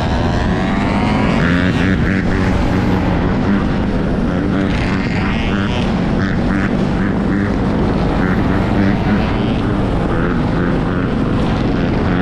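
Off-road motorbikes riding: a steady engine drone with wind noise, and a rising whine in the first second.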